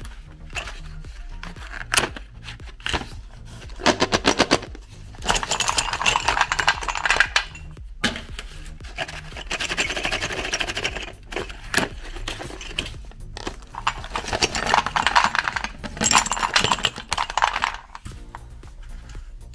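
Meat grinder crushing sticks of coloured chalk: several stretches of rapid crunching and rattling, each a second or more long, with short pauses between. Background music runs underneath.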